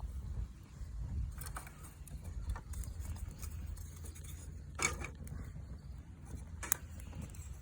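A few light knocks and clicks, the sharpest two about five and seven seconds in, over a steady low rumble.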